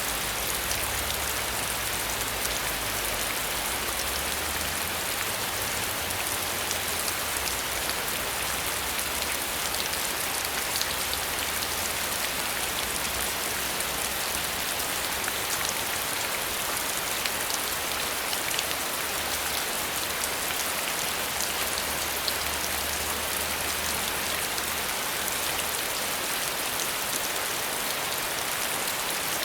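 Steady heavy rain, a dense hiss of countless small drop ticks. A faint low rumble comes and goes underneath.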